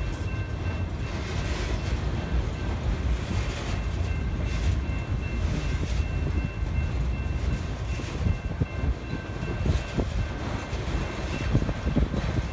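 A freight train of autorack cars rolling past with a steady rumble of wheels on rail. Faint high steady tones come and go through it.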